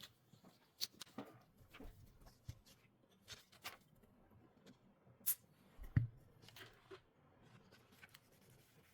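Faint, scattered clicks and light taps of small repair tools handling a smartphone, with the two loudest taps about five and six seconds in.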